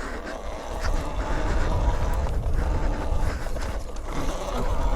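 Dirt bike engine under throttle with a low rumble and heavy wind noise on the rider's microphone, picking up about a second in as the rider tries an off-road wheelie.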